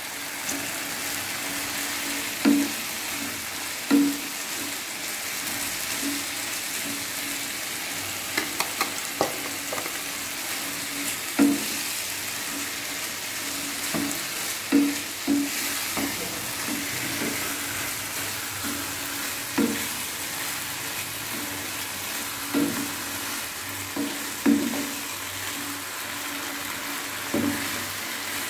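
Vegetables and rice sizzling as they are sautéed in a nonstick kadai. A wooden spatula stirs them, knocking against the pan at irregular moments every second or few.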